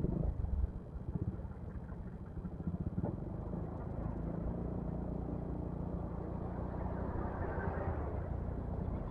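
Yamaha XMAX scooter running at cruising speed, its engine hum under steady wind and road noise.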